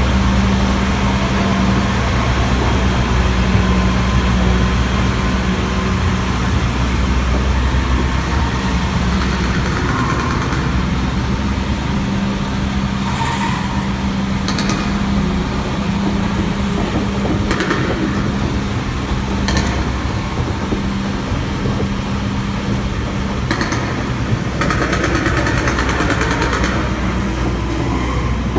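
Tour tram running with a steady low engine hum, with a few short clicks and knocks scattered through it.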